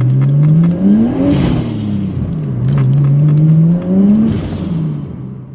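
Nissan Skyline R33's turbocharged straight-six accelerating through the gears, heard from inside the cabin: the engine note climbs, drops at an upshift about a second in, climbs again and drops at a second upshift near the end, with a short hiss at each shift. It then settles and fades out.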